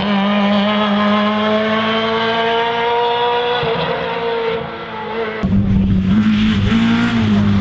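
Rally car engine held at high revs, its pitch slowly rising. About five seconds in the sound switches abruptly to an engine at a lower pitch, with the revs rising and falling.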